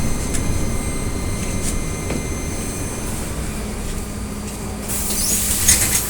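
Inside an AKSM-321 trolleybus standing at a stop: a steady low rumble with a faint hum, then a loud hiss starting about five seconds in.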